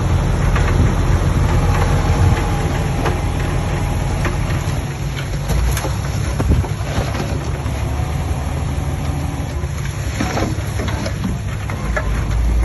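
Heavy diesel construction machinery at work: a steady low engine rumble with irregular metallic clanks and scrapes over it.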